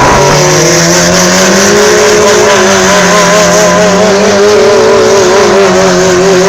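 A drag-racing sportbike engine revved up over the first second or so and then held at high revs, its pitch wavering slightly.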